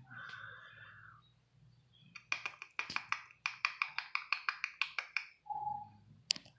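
Young kittens mewing: a short mew at the start, a quick run of short high-pitched squeaks for about three seconds, and a lower mew near the end, then a sharp click.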